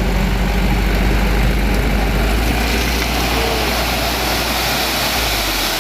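Diesel dump truck running with its engine under load as it tips its bed, with a rushing, grinding noise swelling from about halfway through as the load of stone slides out.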